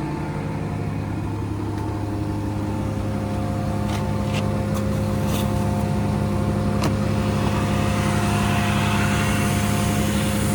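Scania P114 380 truck's 11-litre straight-six diesel idling steadily at a constant pitch, with a few faint clicks partway through.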